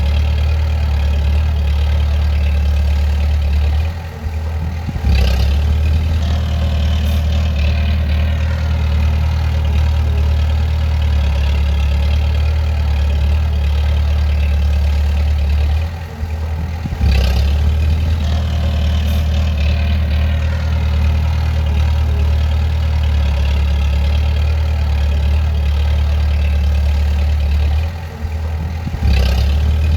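Bulldozer's diesel engine running steadily with a deep hum. Three times, about twelve seconds apart, it briefly drops off and then picks up again with a short knock.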